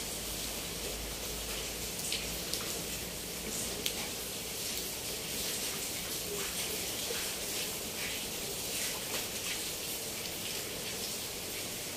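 Steady rain falling on a corrugated roof and leafy trees: an even hiss with scattered sharper drop ticks.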